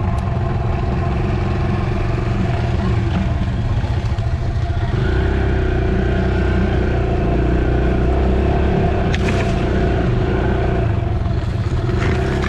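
Dirt bike engine running while riding, its note sliding down about four seconds in and then holding steady.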